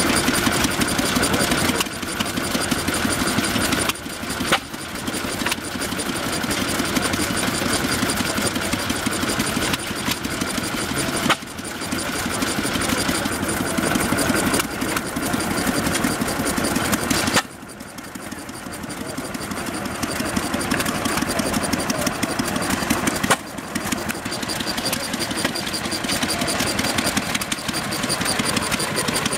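Antique Stirling hot-air engine running with a steady, rapid mechanical clatter. The level drops abruptly several times.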